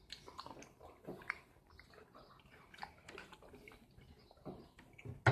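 Close-up chewing of a mouthful of salad with tomato: soft, wet mouth noises and small irregular clicks.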